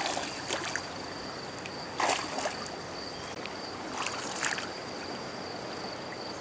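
Shallow river water flowing steadily, with short splashes about two seconds in and again about four seconds in as someone moves through the water digging for earthworms in the riverbed.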